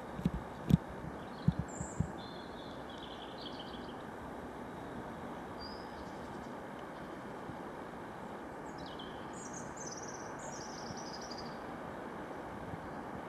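Small birds singing short chirping phrases over a steady background rush, in the first few seconds and again in a longer run from about eight seconds in. A few sharp thumps in the first two seconds are the loudest sounds.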